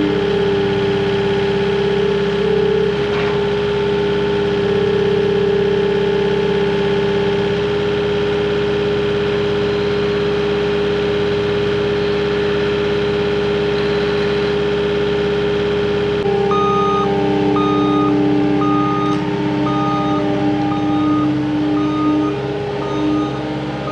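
CAT 259D compact track loader's diesel engine running steadily. About two-thirds of the way in, its backup alarm starts beeping about once a second as it reverses.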